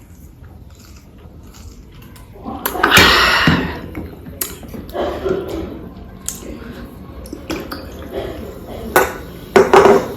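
Close-up mouth sounds of drinking an energy drink and breathing out loudly about two and a half seconds in, followed by scattered small knocks and clinks of tableware, with two sharp clicks near the end.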